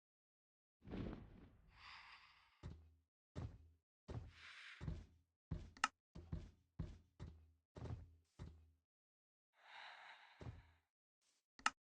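A series of about a dozen irregular knocks and thuds, with two short breathy hissing sounds among them; the sharpest knock comes just before the end.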